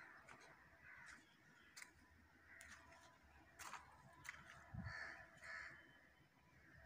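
Quiet outdoor ambience with faint, distant bird calls, a few light clicks and a soft low bump about five seconds in.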